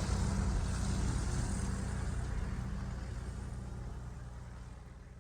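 A recorded engine sound effect: a steady low mechanical drone with hiss, fading out gradually over the last couple of seconds.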